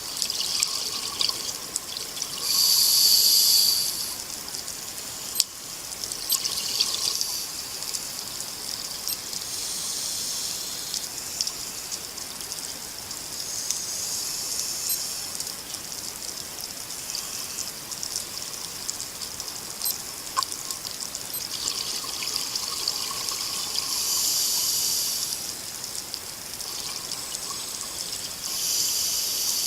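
Underwater sound of scuba divers breathing through their regulators: bubbling hiss of exhaled air in surges of a second or two, every few seconds, over a steady watery background.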